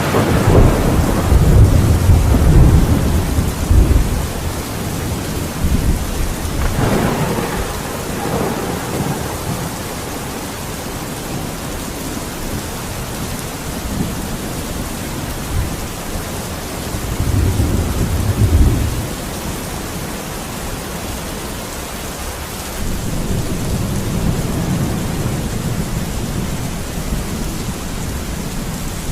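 Steady heavy rain with thunder: a loud rumble at the start, a sharper crack about seven seconds in, another rumble around eighteen seconds, and a low rumble rolling in from about twenty-three seconds.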